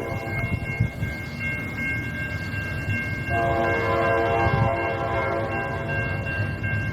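Norfolk Southern locomotive's air horn sounding over the low rumble of the train: one blast ends about a second in, and a longer one starts a few seconds later and holds on. A steady high-pitched tone runs underneath.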